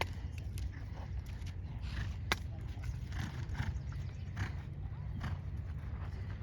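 A horse moving in a dressage arena: repeated hoofbeats and breaths at an uneven rhythm, over a steady low rumble. One sharp click a little past two seconds in.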